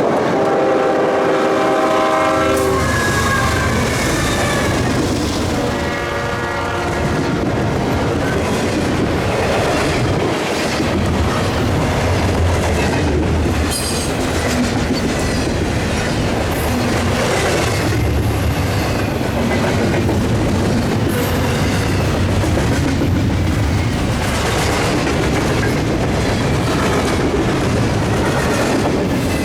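A freight train's diesel locomotive horn, a Nathan K5HL, sounding a chord in blasts over the first several seconds. This is followed by the steady rumble of the passing train, its wheels clicking over the rail joints.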